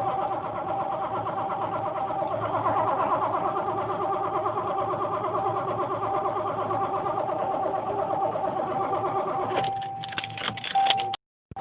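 1986 Ford Mustang 5.0's V8 being cranked over by the starter in a long, rhythmic churn for about nine and a half seconds without catching, a crank-no-start. The cranking stops near the end and is followed by a few sharp clicks.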